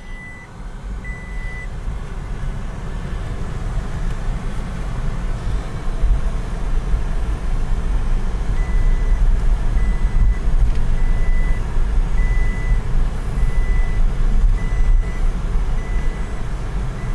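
Car driving, heard from inside: a low rumble of engine and road noise that builds over the first several seconds as it gathers speed, then holds steady. A short high beep repeats about once a second near the start, stops, and comes back from about halfway through.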